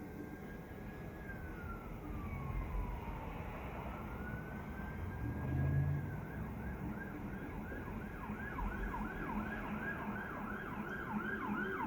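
Emergency vehicle siren sounding a slow wail that falls and rises again, then switching about halfway through to a quick yelp of two or three sweeps a second. A low rumble of wind or traffic runs underneath.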